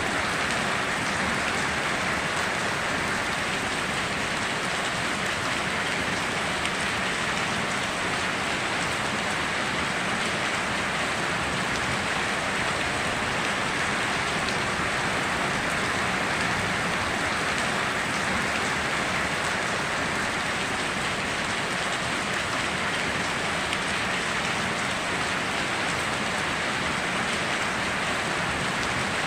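Steady heavy rain falling, an even, unbroken hiss with no thunder.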